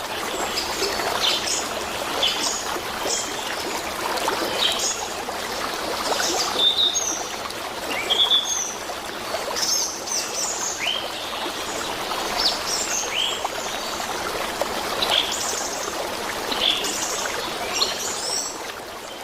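Small birds chirping over and over, many short high calls, above a steady rush of running water.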